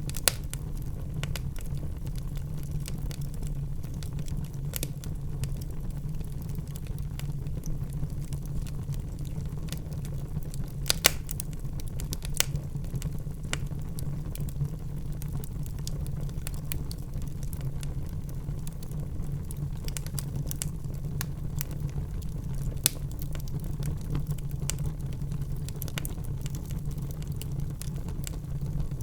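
Wood fire burning in a fireplace: a steady low rumble with scattered sharp crackles and pops, a few of them louder.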